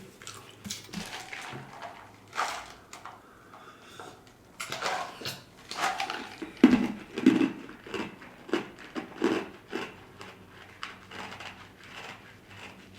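A person eating fried chicken close to the microphone, with irregular crunching, chewing and mouth sounds, and an occasional clink of dishes or cutlery.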